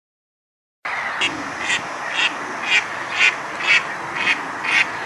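Silence for about a second, then a duck quacking over and over, about two quacks a second, over a steady hiss.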